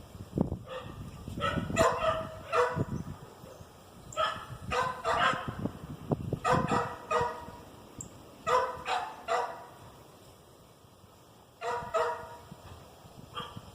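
An animal calling outdoors in short, sharp, pitched calls, in clusters of two or three a second or two apart, repeating through the stretch.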